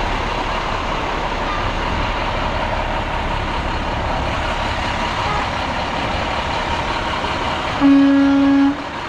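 Steady running noise of truck engines, then a single truck horn blast lasting just under a second near the end.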